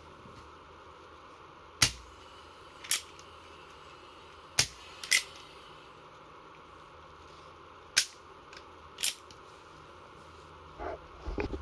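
Marushin SAA .45 gas revolver being worked and fired: six sharp cracks in three pairs, each pair about a second apart, then lighter clicks and handling rattle near the end.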